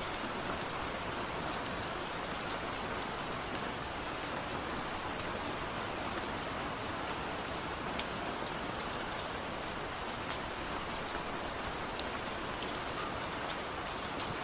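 Steady rain falling: a dense, even hiss with single drops ticking sharply here and there.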